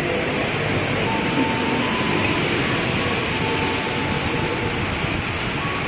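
Tokyo Metro 6000 series electric commuter train pulling out of the station, a steady running rumble mixed with the hiss of heavy rain, with a faint whine that comes and goes.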